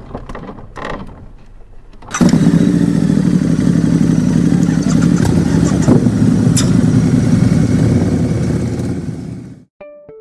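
A motorcycle engine: after a couple of short sounds, it starts about two seconds in and runs loudly and steadily, then fades out near the end.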